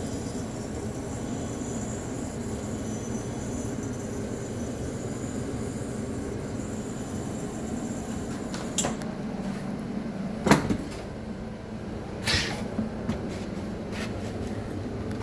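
A refrigerator running with its fan blowing while the compressor fails to start, a steady hum. A few sharp clicks or knocks come in the second half, the loudest about two-thirds through.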